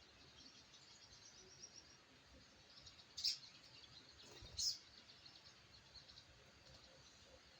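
A sunbird (sogok ontong) chirping: faint, rapid high chirps go on throughout, with two short, sharp, louder calls about three and four and a half seconds in.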